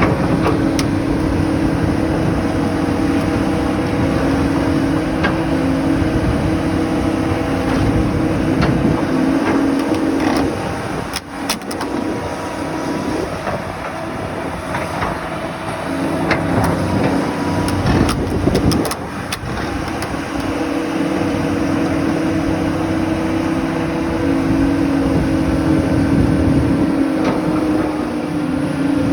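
Caterpillar 336D L hydraulic excavator's diesel engine running under working load, with scattered metallic clanks. The engine note falls away twice, about 11 and 18 seconds in, then comes back up.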